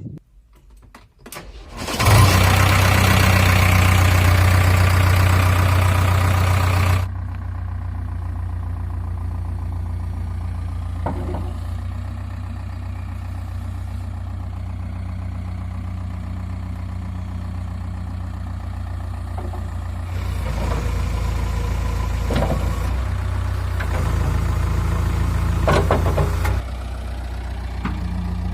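An engine starts about two seconds in and runs fast and loud for about five seconds, then drops to a steady idle. It picks up somewhat for several seconds later on, and a few short knocks sound over it.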